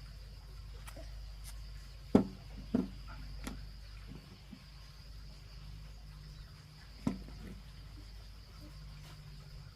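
Steady high insect drone, broken by a few sharp knocks: three between about two and three and a half seconds in, and another around seven seconds.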